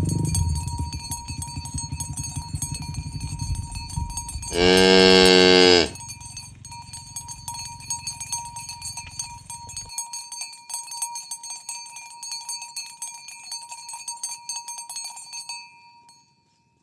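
A cow moos once, loud and a little over a second long, about five seconds in, over a steady clinking and ringing of bells that fades away near the end.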